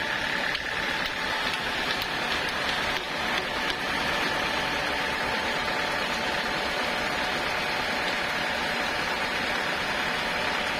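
Sawmill machinery running steadily: a constant mechanical noise with a faint steady whine.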